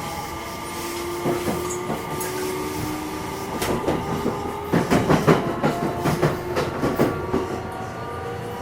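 Running sound inside the motor car of a JR West 227 series electric train: steady motor and running hum with a faint tone that rises slowly. From a few seconds in, bursts of wheels clattering over rail joints.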